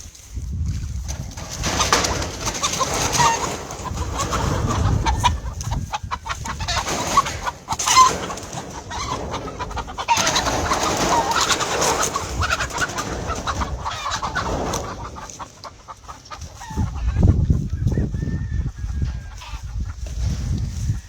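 Whitehackle gamefowl chickens clucking and calling in their pens.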